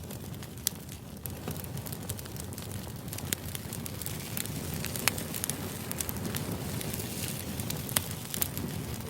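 Steady white-noise background with scattered sharp crackles and pops.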